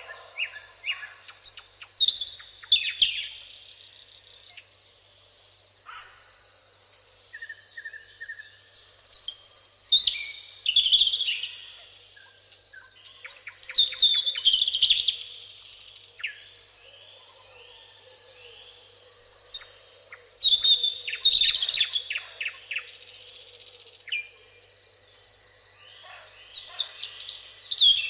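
Songbirds singing, with a loud, busy song phrase every four to eight seconds and softer chirps in between, over a steady high-pitched insect trill.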